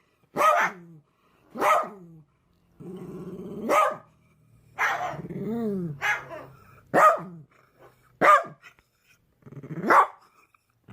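A dog barking about seven times, each bark a separate short call, with a drawn-out low growl leading into one or two of the barks.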